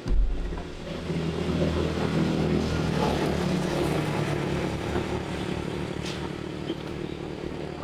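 A motor starts abruptly and runs steadily, with a low pulsing throb.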